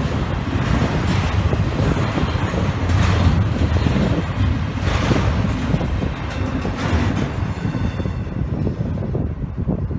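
Freight train rolling past: a steady low rumble of cars on the rails, with clacks every second or two. The higher hiss drops away about eight seconds in.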